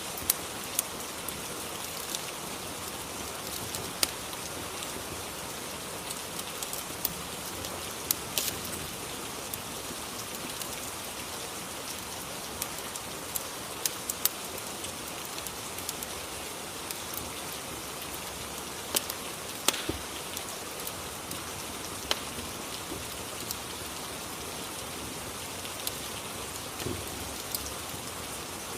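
Rain and fireplace ambience: a steady hiss of rain with scattered, irregular sharp crackles.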